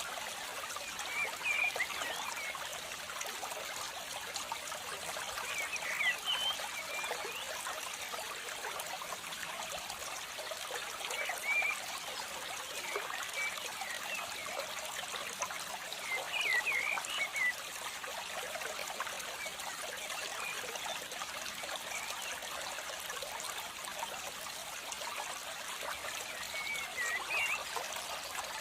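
Steady trickling water with short, high chirps every few seconds.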